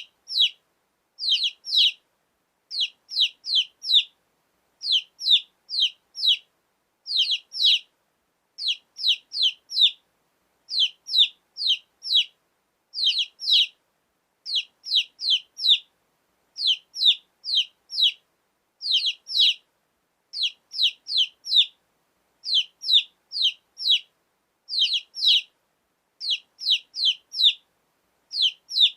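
Domestic chicken chicks peeping: short, high, falling chirps in quick runs of three or four, repeating about every one and a half to two seconds.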